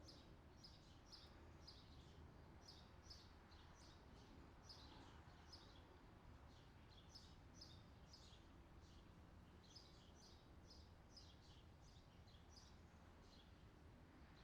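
Faint outdoor summer ambience recording: birds chirping in quick short calls over and over, above a steady low background hum.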